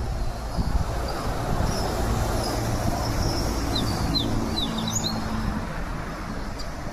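Small bird chirping high and thin, with a quick run of short falling notes about four to five seconds in, over a steady low rumble.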